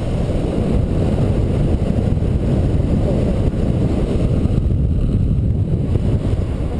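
Wind rushing and buffeting over the microphone of a paraglider in flight in strong wind: a loud, steady rumble, heaviest in the low end.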